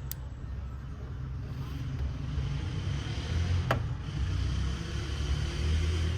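A car's low, steady rumble, growing a little louder, with a sharp click at the start and another a little past halfway.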